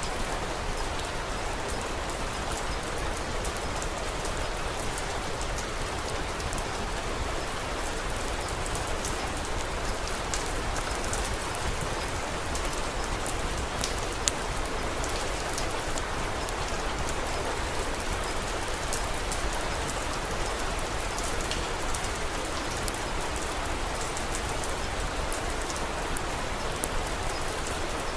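Steady rain falling, with scattered small ticks and soft crackles of a wood fire mixed in, and one sharper pop about halfway through.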